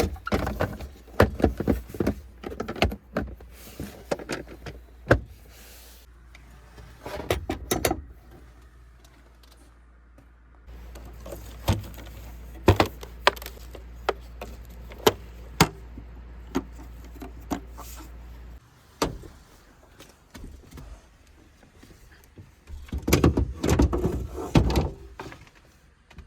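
Irregular clicks, knocks and clatters of objects being handled, busiest near the start and again near the end, with a steady low hum for several seconds in the middle.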